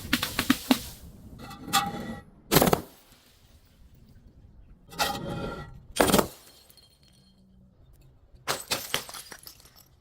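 Glass being broken and crushed: a series of sharp cracks and crunching bursts with quiet gaps between, the loudest strikes about two and a half and six seconds in.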